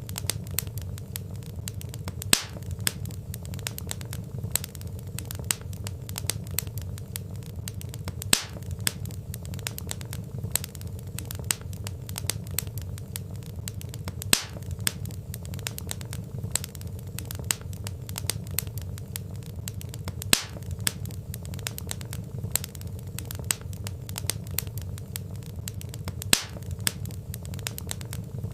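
Wood fire crackling steadily: a low, even rumble of burning with dense small crackles and a sharper pop from the logs about every six seconds.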